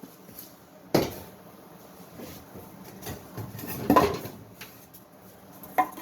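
Workshop handling noise: three separate sharp knocks or clatters, about a second in, about four seconds in and near the end, with quieter rustling between them.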